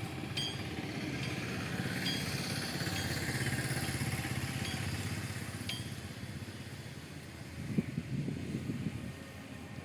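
A motorcycle engine running close by, getting louder over the first few seconds and then fading away about seven seconds in, with a few faint clinks.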